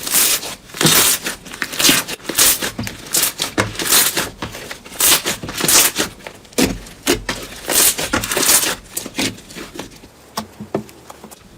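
Slime being squeezed and pressed by hand, a quick run of crackly, crunchy squishes about two a second, thinning out near the end.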